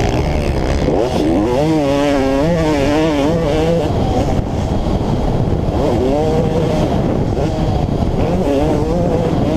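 Motocross dirt bike engine revving hard and rising and falling quickly in pitch as the throttle is worked, over loud rushing wind.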